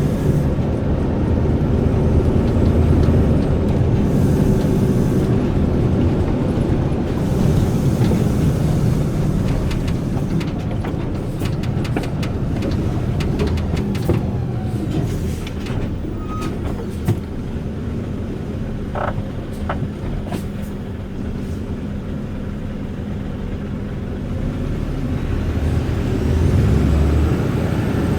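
Volvo FE 320 truck's turbo diesel engine running under way, easing off in the middle and pulling harder again near the end. A faint high turbo whistle rises and falls near the start and again near the end, with a few light clicks in between.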